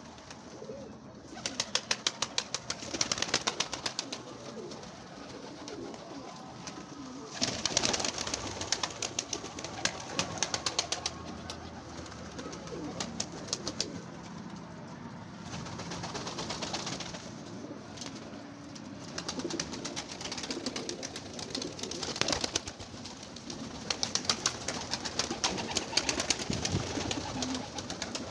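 Pigeons cooing in a small enclosed loft, with several bursts of rapid clicking lasting a few seconds each.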